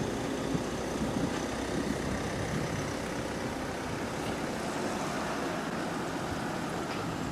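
A motor vehicle's engine running steadily, over steady outdoor background noise.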